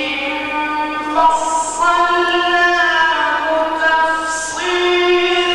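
A solo male voice reciting the Quran in the ornamented mujawwad style, holding long, high, melismatic notes that glide from pitch to pitch, with two brief hissed consonants.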